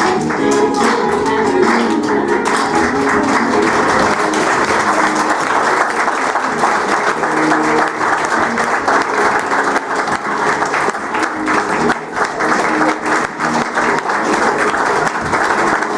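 Audience applauding as a song ends: music plays at first, then dense clapping takes over and carries on, with faint pitched sounds still under it.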